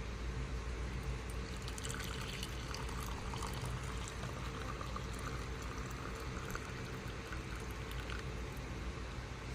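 Hot chocolate pouring and trickling, with an uneven splashy patch over the first half, above a steady low hum.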